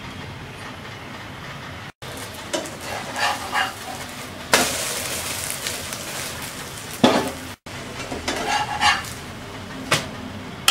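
Bread omelette frying in oil in a nonstick pan: a steady sizzle, with a metal spatula scraping and clinking against the pan. The sizzle gets louder about halfway through, when the omelette is turned. The sound cuts out briefly twice.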